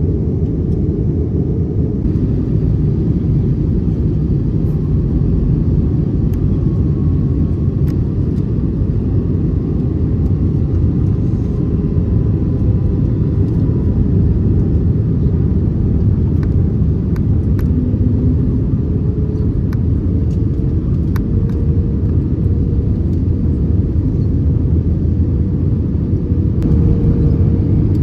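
Steady low rumble of airliner cabin noise inside an Airbus A321neo in flight, with engine and airflow noise and a faint hum that rises slightly in pitch in the second half.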